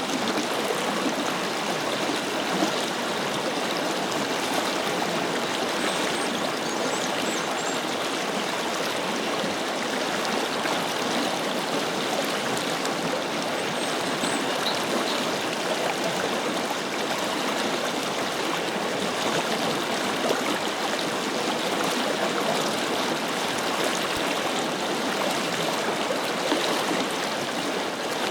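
A forest river flowing: a steady, unbroken rush of running water.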